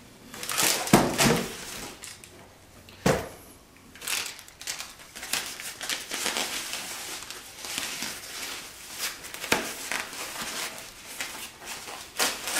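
Packaging rustling and crinkling as it is handled and pulled open, with a couple of soft knocks about one and three seconds in.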